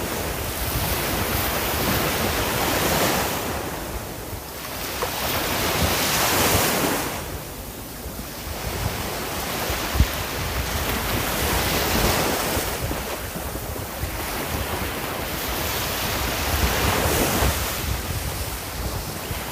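Sea waves breaking and washing up the shore, the surf swelling and falling back about every four to five seconds, with wind buffeting the microphone.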